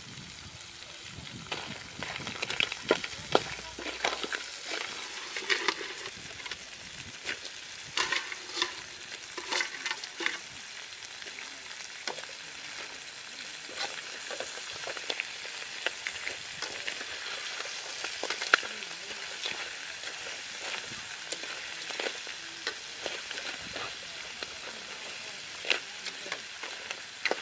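Crabs frying with garlic in a steel wok, stirred with a metal slotted ladle: a steady sizzling hiss with frequent sharp clacks and scrapes of the ladle against the pan and crab shells, busiest in the first ten seconds.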